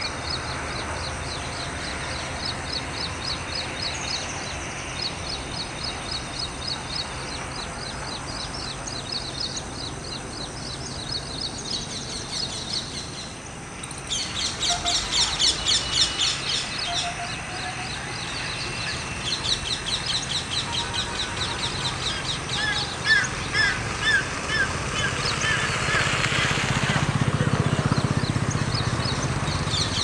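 Birds chirping outdoors in a long run of rapid, repeated high notes, louder for a couple of seconds about halfway through, with a few lower, clearer notes a little later. A low rumble swells in under the birdsong near the end.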